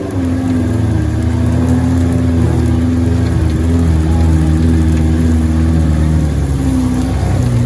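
Off-road 4x4's engine running under steady load, its pitch rising and dipping a little as the throttle changes.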